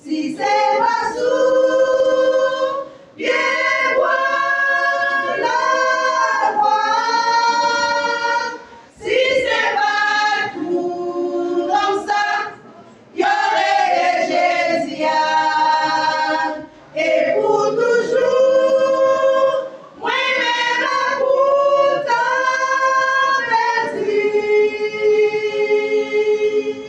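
Choir singing a Haitian Creole gospel song, the voices held in long phrases with short breaths between them.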